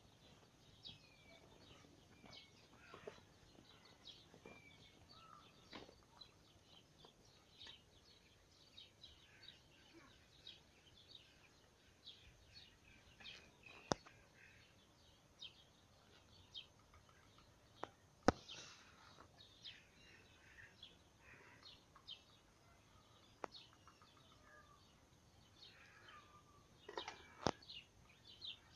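Faint birds chirping, many short high chirps scattered throughout, with two sharp clicks, one about halfway through and another a few seconds later.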